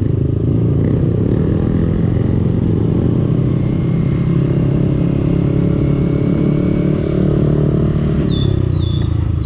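Motorcycle engine running through its aftermarket exhaust while riding. It is a steady drone whose pitch rises a little through the middle and drops near the end, and a few short high chirps come in the last second.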